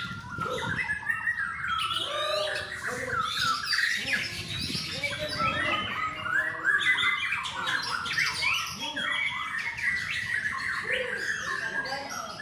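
Bornean white-rumped shamas (murai batu) singing, several birds at once: a dense, unbroken run of varied whistles, rapid chirps and squawky notes.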